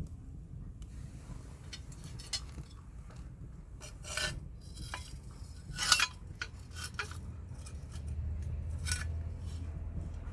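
A few sharp clinks and scraping knocks, like hard objects being handled, over a steady low rumble; the loudest clink comes about six seconds in.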